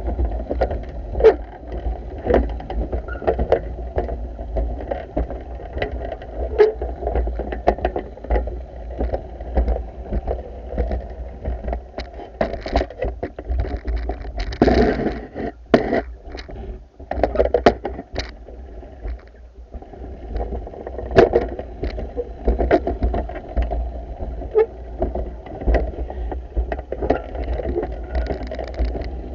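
Pool vacuum at work: a steady low rumble with scattered knocks and clicks, easing briefly about two-thirds of the way through.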